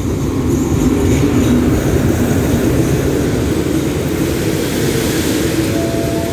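Diesel locomotive and its passenger coaches running past at close range as the train pulls in to stop, engine noise and wheels rumbling on the rails. A steady whine comes in near the end.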